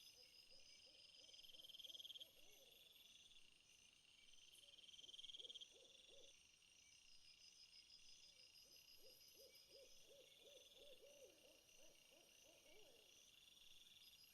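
Crickets or other insects chirping in several overlapping high trills, with a low animal call repeated in quick runs of notes, about three a second, three times.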